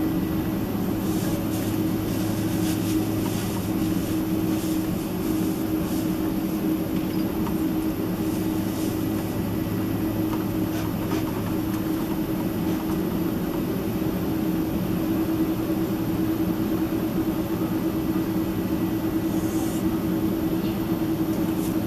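Steady engine hum and rumble inside the cabin of a Boeing 767-300ER, with light clicks and rattles in the first half.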